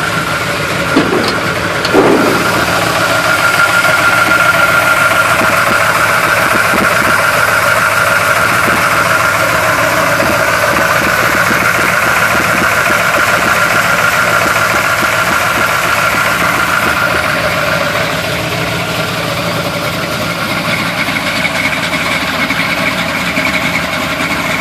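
1971 Chevy Blazer's small-block V8 with a big camshaft idling rough and choppy after a cold start, with two quick rises in engine speed about one and two seconds in.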